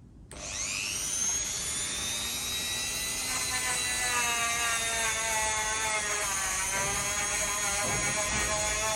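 Small electric rotary tool with a stainless steel wire brush spinning up about half a second in. It then runs with a steady high whine that wavers and dips slightly as the brush is pressed into the brake caliper to scrub off corrosion.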